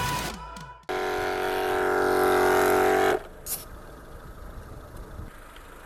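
Background music fades out. Then a tyre-inflating air compressor runs with a loud steady buzz for about two seconds and stops abruptly, followed by a click and quiet.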